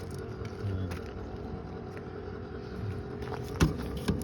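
School bus engine idling steadily, with a sharp knock about three and a half seconds in and a lighter click just after.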